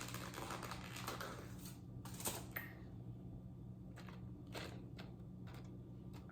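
Faint scattered clicks and taps of a utensil and container as queso is spooned out, over a steady low hum.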